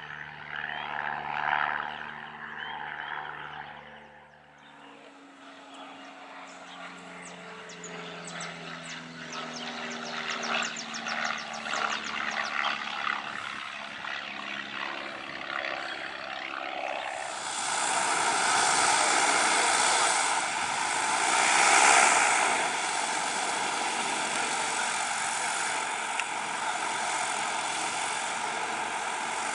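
Vans RV-10 single-engine propeller plane running: first a steady engine note, then after a brief drop a softer stretch whose pitch slides slowly. From just past halfway comes loud, steady engine and propeller noise at high power, loudest a little after that.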